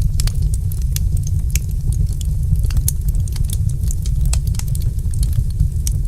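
Wood fire in a fireplace crackling: frequent sharp, irregular pops and snaps over a steady low rumble.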